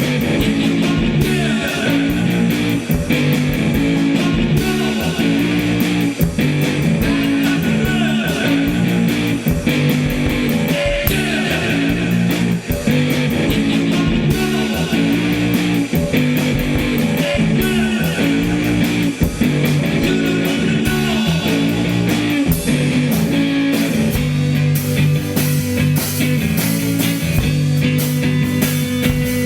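Instrumental psychedelic rock: guitars playing a repeating riff over bass and drums with a steady beat, the cymbals growing brighter in the last few seconds.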